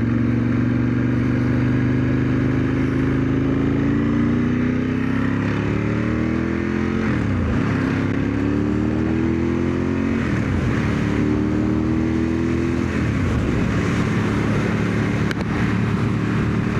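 1997 Ducati 916's V-twin engine accelerating under way, revs climbing through the gears. There are two upshifts, about seven and ten seconds in, before it settles at a steadier speed. It is ridden gently, at running-in revs.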